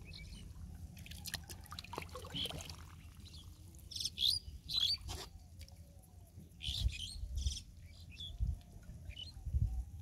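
Birds chirping, with clusters of short high calls about four seconds in and again near seven seconds, over a steady low rumble.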